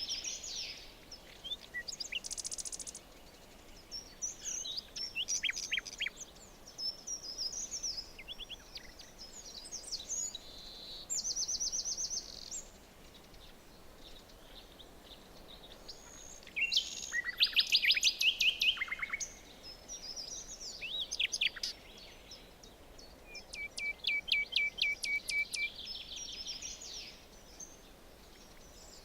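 Several songbirds calling and singing over a faint steady hiss of forest background, with rapid trills and chirps coming in bursts and a brief lull about halfway through.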